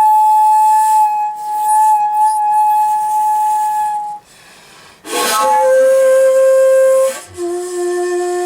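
Solo shakuhachi playing slow, long-held notes. A high note is held for about four seconds, then there is a short pause for breath. A forceful, breathy attack about five seconds in lands on a lower note, which steps down to a lower one still near the end.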